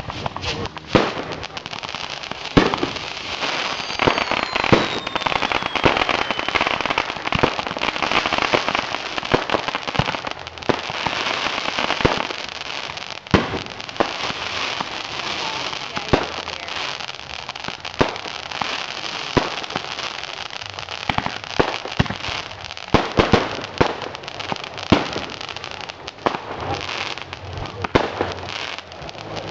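Fireworks going off: a string of sharp bangs over continuous crackling, with a falling whistle a few seconds in.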